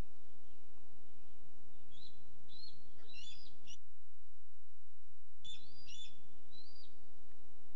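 A wild bird calling in two short bursts of high, rising whistled notes, about two seconds in and again near six seconds, over a steady low electrical hum. The hum and background hiss cut out for over a second between the two bursts.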